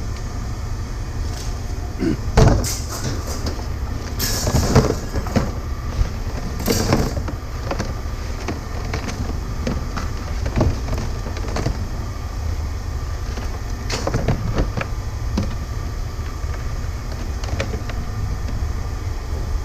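Scattered knocks and clatters of metal scrap being handled, over a steady low rumble.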